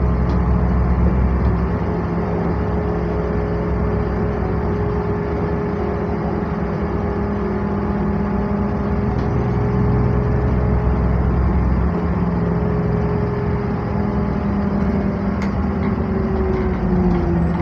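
NefAZ-5299 city bus driving, heard from inside the passenger cabin: a steady engine and drivetrain drone with a held whine, plus road noise. The whine drops in pitch near the end.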